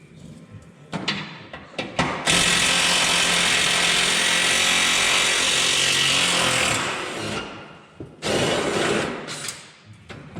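A power tool running steadily for about four seconds, then a second shorter run near the end, with a few knocks of tools before it.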